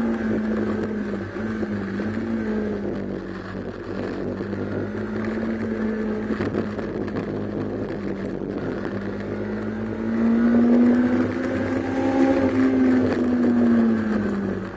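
Honda K20A VTEC four-cylinder engine swapped into a Toyota MR-S, heard from inside the cabin, running hard at high revs under racing load. The engine note holds fairly steady, climbs from about ten seconds in, then falls away near the end.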